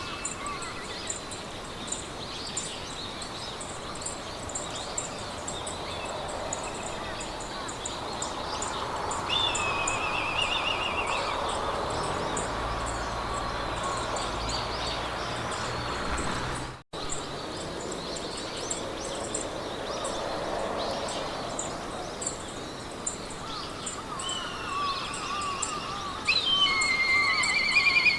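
Meadow ambience: wind blowing through grass that swells in the middle, a steady fast chirping of insects, and birds singing short warbling phrases now and then. The sound cuts out for an instant past the middle.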